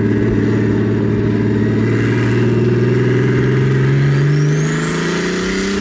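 Turbocharged drift car's engine heard from inside the cabin, pulling under light throttle on a warm-up lap, its pitch climbing slowly and steadily. A thin high whistle rises steeply in pitch in the last second or two.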